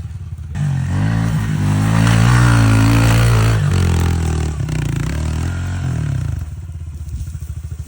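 Pit bike's small single-cylinder engine revving hard under load, at its loudest and highest about two to three seconds in, as the rider tries to get the bike over a big rock. It then eases off, and near the end drops to an even, pulsing idle.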